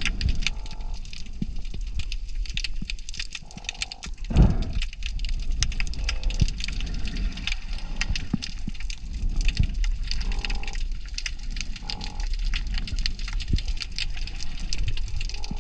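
Underwater ambience by a rocky reef: a dense crackle of fine clicks over a low rumble, with a dull thump about four seconds in.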